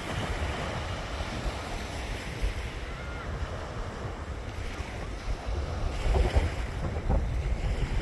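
Sea waves breaking on a beach, with wind buffeting the microphone as a low rumble that grows a little stronger near the end.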